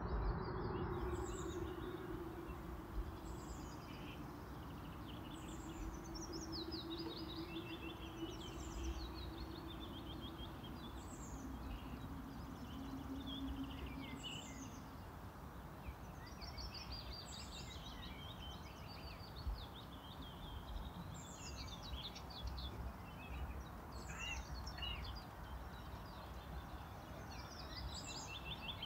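Small birds singing: short falling chirped phrases repeating every second or two, over a steady low outdoor rumble. A faint steady low hum runs under it for about the first half.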